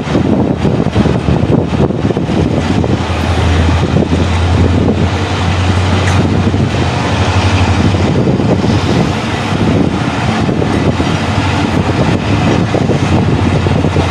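Passenger train accelerating away from a station, heard from aboard: the diesel locomotive's steady low engine drone, strongest a few seconds in, over the coaches' rumbling running noise.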